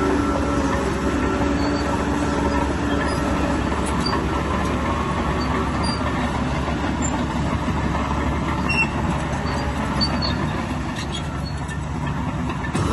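Bulldozer's diesel engine running steadily, with scattered faint high squeaks and clicks over it.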